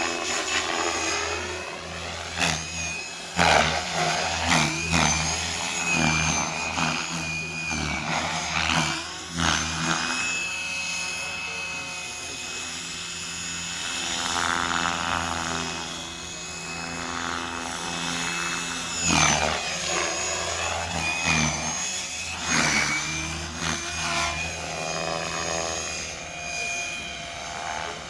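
Gaui Hurricane 425 electric RC helicopter in flight: motor whine and rotor hum that rise and fall in pitch as it manoeuvres, with a few short loud swells.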